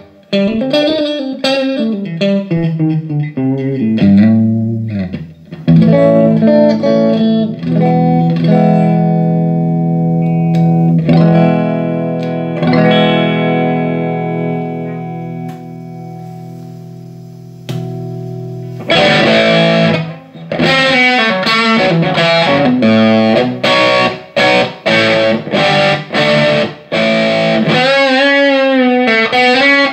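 Electric guitar played through a Laney Ironheart IRT30 valve amp, tested after a repair for signal cutting out. Strummed chords, one left to ring and fade slowly, then choppy, rhythmic chords from about two-thirds of the way in.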